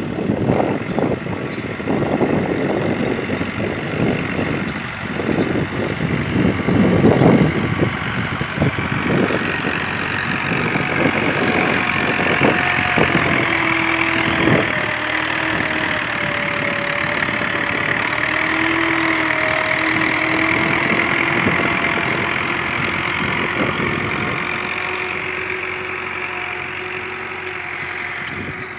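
Tractor engine running, with uneven rumbling and knocks for the first ten seconds or so, then a steadier hum that grows fainter near the end.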